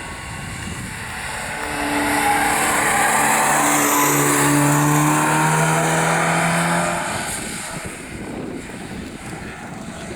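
Rally car passing at speed on a closed stage, its engine at high revs. The engine grows loud about two seconds in, holds for several seconds with its pitch stepping between gears, then fades away.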